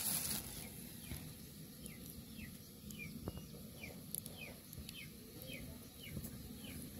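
Faint bird chirps: short, falling high notes repeated about twice a second over low background noise.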